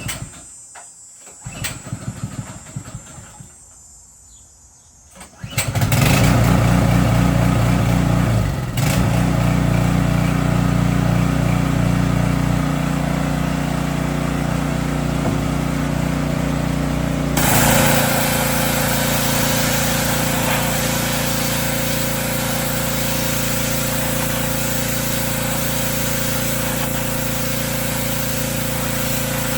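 Small gas engine of a pressure washer starting up about five seconds in and then running steadily. About two-thirds of the way through, a loud, even hiss joins the engine and its note changes, as spraying starts.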